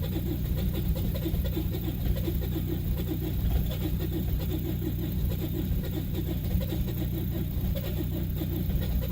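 Vehicle engine idling steadily after a cold start, with an even low running note and a regular pulsing beat.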